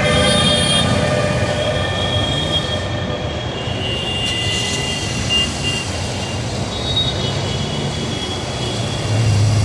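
Train rolling past a level crossing: a steady rumble of the cars on the rails, with thin high squeals coming and going over it.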